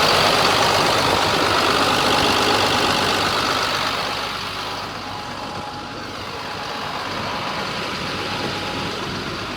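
Caterpillar 7.2-liter diesel engine of a 2000 GMC C6500 truck running at a raised idle. The sound gets quieter about four seconds in.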